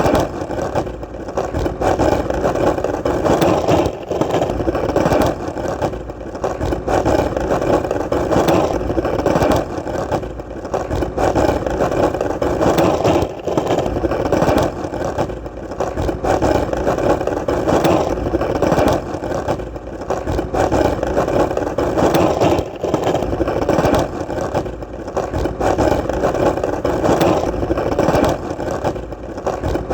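Skateboard wheels rolling on solid ground: a steady rumbling roll that dips briefly every second or two.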